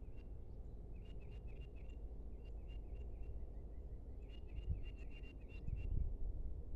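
A small bird calling in quick runs of short, high chirps, several bouts in a row, over a steady low outdoor rumble. A few louder low bumps come near the end.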